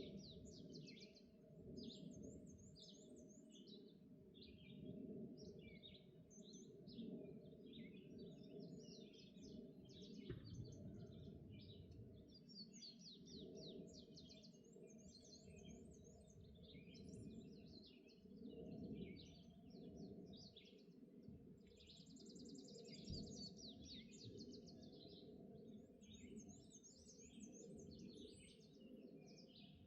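Faint morning chorus of several songbirds: many short chirps and trills throughout, with a high, rapid warbling phrase that comes back three times. A steady low rumble runs underneath.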